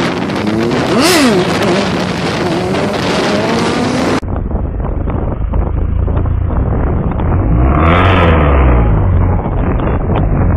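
Motorcycle engine revving sharply up and back down about a second in, then running on. At about four seconds the audio cuts to a rougher recording with heavy wind on the microphone, where an engine swells and fades as a vehicle passes about eight seconds in.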